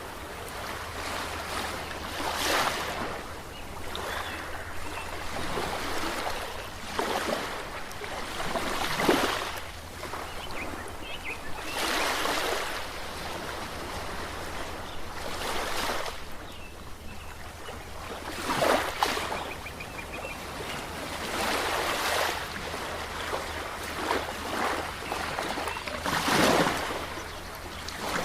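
Ocean waves breaking and washing in one after another, a swell of surf every few seconds over a steady low rumble.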